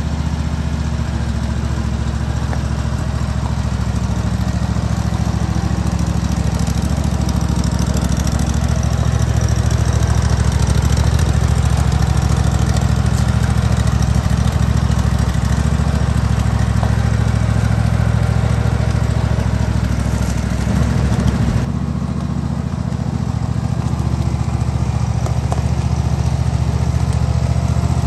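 Efco Tuareg 92 ride-on tractor's engine running steadily. About three quarters of the way through, the sound briefly swells and then turns abruptly duller, with less hiss on top.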